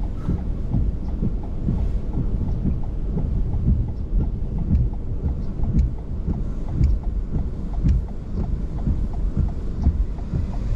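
Strong tornado winds buffeting the microphone in a heavy, constant low rumble, with many small sharp taps throughout.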